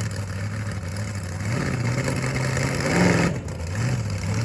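Monster truck engine running and revving hard, its pitch climbing to a peak about three seconds in, then falling back, as the truck struggles to get through thick mud.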